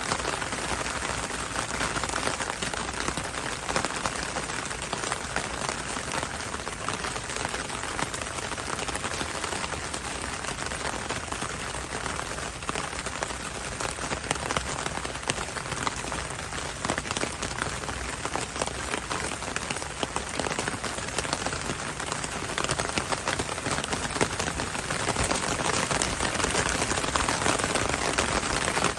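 Heavy rain falling steadily, a dense hiss of rain with many close drops pattering on surfaces. It grows a little louder near the end.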